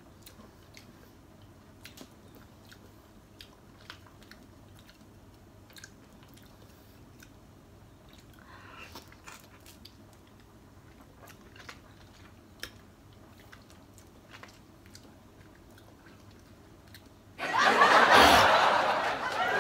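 Faint chewing and wet mouth clicks from someone eating raw lemon slices, scattered through a quiet room. About two seconds before the end, a sudden loud burst of noise takes over.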